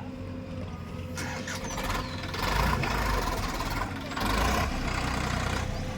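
Diesel engine of a JCB machine running, swelling into louder, heavier surges about two and a half seconds in and again about four seconds in.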